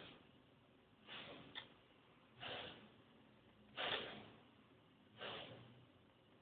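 Short, noisy puffs of breath close to the microphone, five of them at an even pace about a second and a half apart, with a faint click between the second and third.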